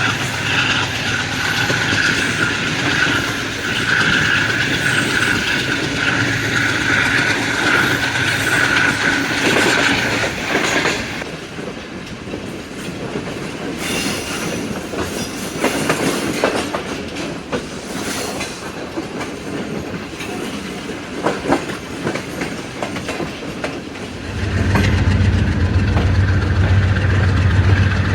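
Passenger train running behind an AGE30 'Blue Tiger' diesel-electric locomotive, its wheels clicking over the rail joints. A steady high whine runs for the first ten seconds or so, then the sound drops back to clicking and rattling, and about 24 seconds in a deep low drone swells in and it gets louder.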